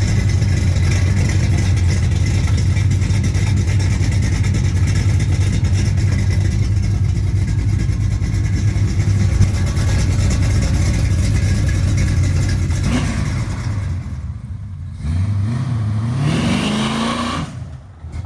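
Freshly built 350-cubic-inch V8 with a Holley carburetor running steadily as it warms up. About thirteen seconds in the sound dips. The engine is then revved in one rising sweep that cuts off sharply just before the end.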